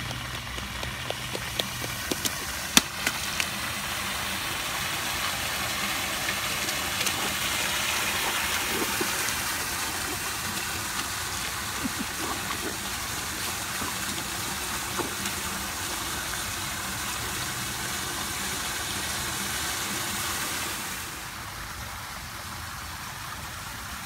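Steady hiss of rain falling on wet pavement, with a few sharp splashes and taps from rubber rain boots stomping in puddles, most of them in the first few seconds. The hiss drops down quite suddenly about 21 seconds in.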